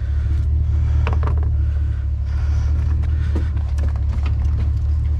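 A truck engine rumbling steadily at low speed, with a few faint knocks over it.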